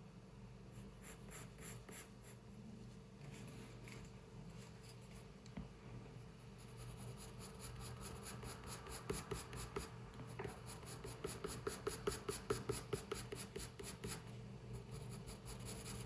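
Pencil scratching on paper in drawing strokes: a few separate strokes at first, then a long run of quick back-and-forth strokes, about five a second, like hatching or shading, stopping shortly before the end.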